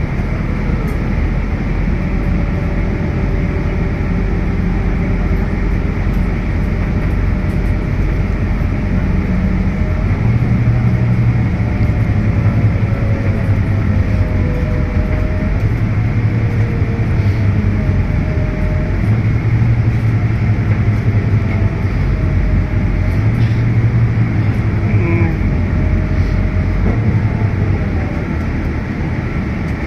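Scania K320UB hybrid bus heard from inside the cabin while driving: a steady low engine drone that swells and eases every few seconds, with a whine that rises and falls in pitch.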